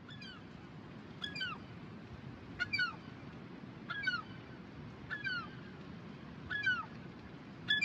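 A bird calling over and over: a short, high, downward-slurred cry repeated about every second and a quarter, seven times, over a steady low rush.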